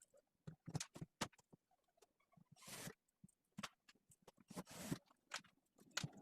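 Faint, scattered taps and clicks of work being handled, with two short scraping sounds, one a little under halfway in and one about three-quarters of the way in.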